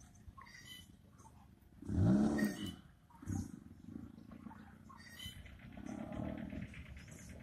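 Hyundai i10 hatchback's engine revving, heard from a distance: one sharp rev about two seconds in that rises and falls in pitch, then lighter revving.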